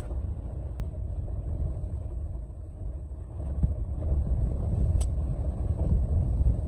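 Blizzard wind buffeting the microphone: a gusting low rumble, with a faint click about five seconds in.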